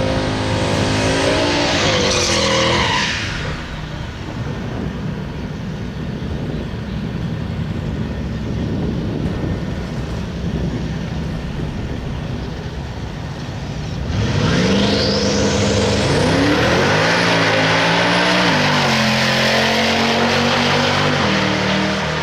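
Twin-turbo Mustang drag car engine: the revs rise for about three seconds at the start, then a rough, noisy stretch follows. About fourteen seconds in, the car runs at full throttle, its pitch climbing and then dropping at each of several upshifts.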